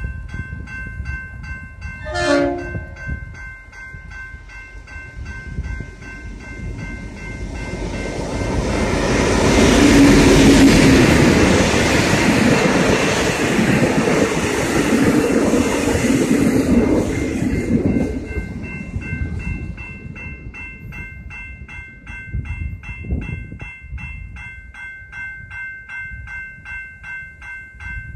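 Level crossing bells ringing in an even repeating pattern while V/Line N class diesel locomotive N475 gives a short horn blast about two seconds in. It then passes through the crossing hauling its carriages, with engine and wheel-on-rail noise loudest from about 9 to 17 seconds in. The crossing bells keep ringing after the train has gone by.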